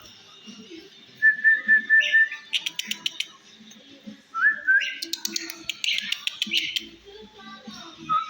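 Starling singing: a short series of clear whistled notes, then a rapid run of harsh clicks. About four seconds in comes a rising whistle, followed by a burst of dense, harsh chattering.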